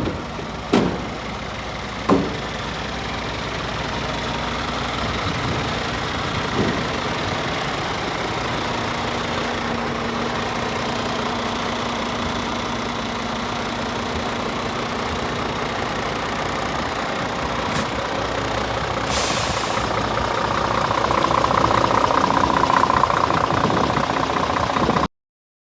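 Scania R450 truck's diesel engine idling steadily, with a few knocks in the first couple of seconds and a short hiss about three-quarters of the way through. The sound grows louder near the end, then cuts off suddenly.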